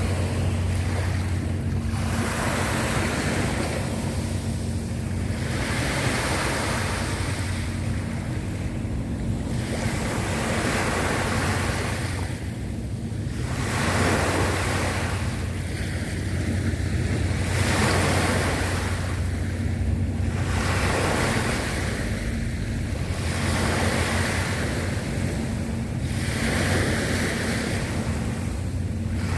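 Sea waves washing in and receding, swelling about every two to three seconds, with wind on the microphone and a steady low hum underneath.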